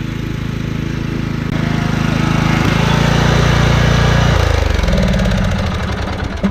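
Lawn mower engine running steadily, growing louder about a second and a half in, then dropping in pitch and level a little after four seconds, as when the throttle is eased off.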